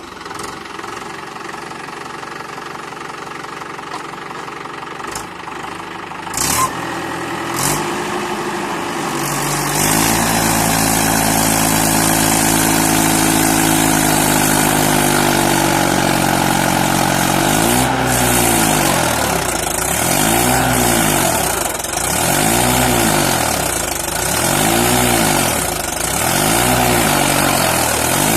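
Tractor's diesel engine idling, then revving up about nine seconds in and held at high revs; from about halfway its pitch rises and falls about every second and a half as the engine is worked against the load of a tractor stuck in mud.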